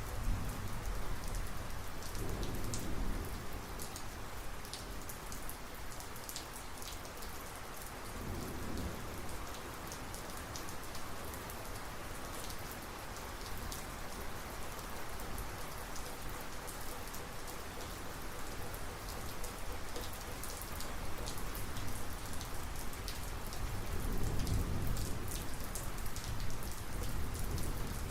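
Steady heavy rain falling, with close drop impacts ticking over the hiss. Low rolls of thunder rumble under it several times, the strongest a little before the end.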